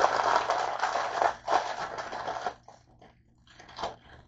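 A person chewing crunchy food close to the microphone: loud crunching for the first two and a half seconds, then softer, sparser chews.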